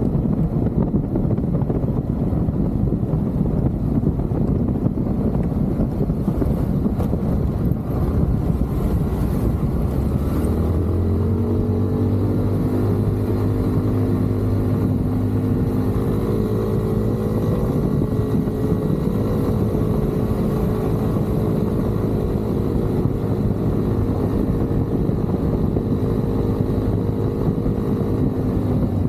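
Motorcycle riding, with wind rumbling on the microphone. About ten seconds in, a steady engine drone sets in and holds at one even pitch, as if cruising at constant speed.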